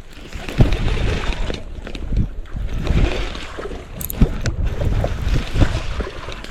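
Wind buffeting the microphone, with water splashing in uneven surges as a hooked smallmouth bass is fought in the creek.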